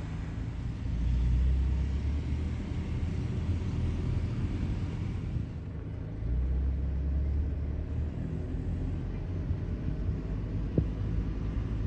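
Low, steady rumble of a car driving, swelling twice, with a faint tick near the end.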